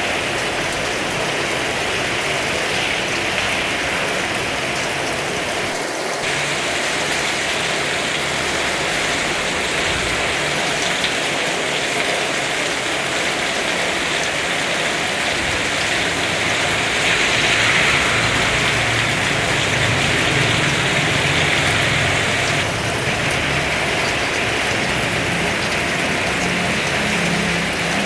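Heavy rain falling in a steady downpour, a little louder for a few seconds past the middle.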